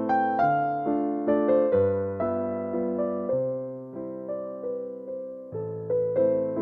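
Soft electric piano music: slow chords and a gentle melody, each note struck and fading, with bass notes changing every couple of seconds.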